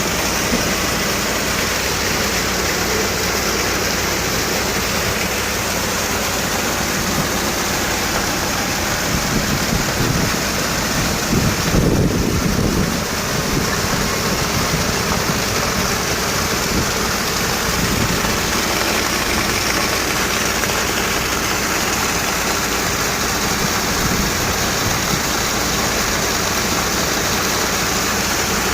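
Heavy rain falling, a loud steady hiss, with a brief louder low rumble about twelve seconds in.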